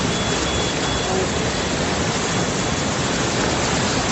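Steady, even rush of flash-flood water, with no let-up.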